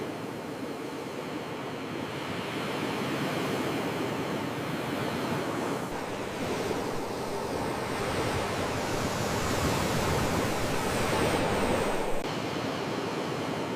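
Sea waves washing in and breaking on the shore, a steady wash that swells slowly, is loudest a little before the end and then falls away suddenly.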